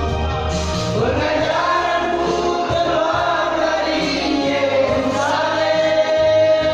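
Vocal group singing a gospel song in close harmony, holding long notes over a steady low bass line.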